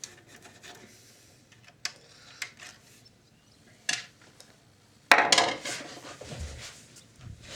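Scattered light clicks and clatter of tools and small parts being handled while a VCR is taken apart, with a louder burst of rattling about five seconds in.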